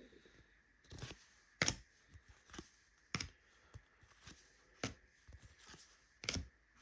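Trading cards being flipped through one at a time, each card giving a sharp flick or snap, about six irregularly spaced, over a faint steady high hum.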